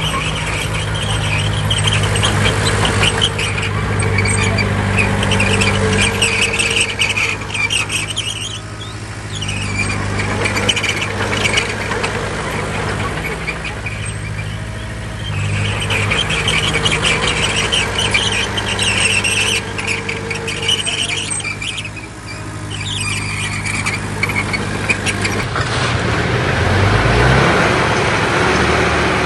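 Bulldozer working: its diesel engine drones under load while the steel tracks squeal and clatter in spells of a few seconds, easing off briefly between pushes. Near the end the engine pitch rises briefly.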